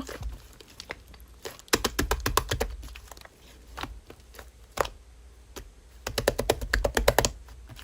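Runs of small, quick, crisp clicks, dense twice, about two seconds in and again near the end, with scattered single clicks between.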